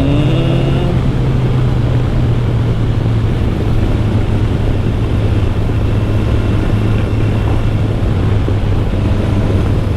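Kawasaki Ninja 1000SX's inline-four engine and exhaust running steadily while riding, a constant low drone under wind noise.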